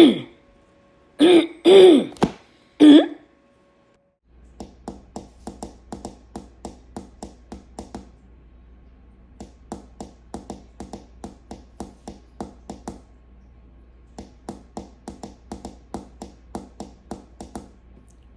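A person clearing their throat and coughing, four loud rasping bursts in the first three seconds. After a moment of silence come a low steady hum and a run of soft, evenly spaced ticks, about three a second, pausing now and then.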